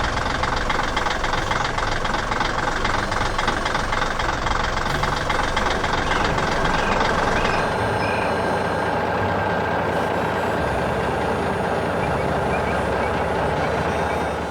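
Heavy construction machine's engine running steadily with a dense, rattly texture. Its low end shifts slightly about ten seconds in.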